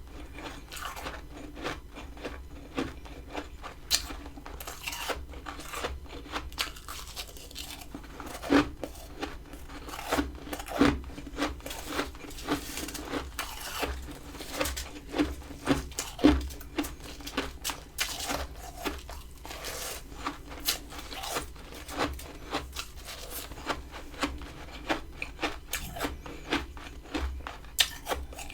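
Close-up crunching and scraping of powdery freezer frost: irregular crisp crunches, several a second, with gritty scrapes in between and a few louder crunches about 8, 11 and 16 seconds in.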